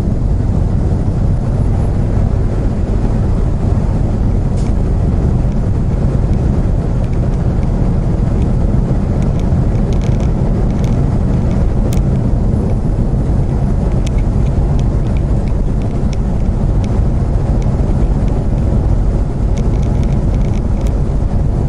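Steady low rumble of engine and road noise inside a moving semi-truck's cab, with a few faint ticks in the second half.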